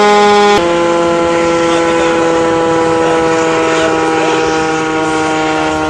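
A loud air horn sounding one long steady note, dropping to a lower note about half a second in and holding it.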